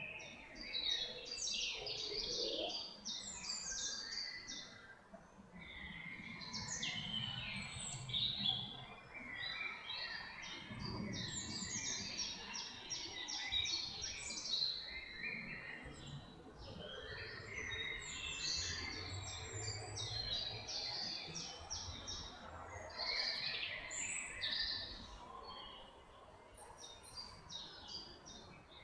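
Several songbirds singing over one another, a continuous tangle of quick chirps and trills.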